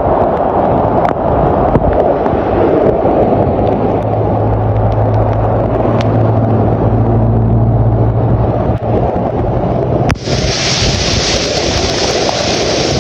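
Loud, rough rumble of wind and rushing water on the microphone, with a steady low motor hum through the middle. About ten seconds in it cuts sharply to a bright, even hiss like heavy rain or fast floodwater.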